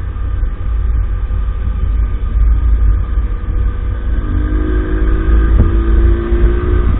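50cc moped engine running on the move under a heavy low wind rumble on the microphone. About four seconds in, a steady engine note comes through more clearly.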